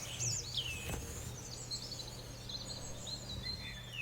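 Small songbirds chirping, a busy run of short high notes that swoop up and down, over a faint steady low hum.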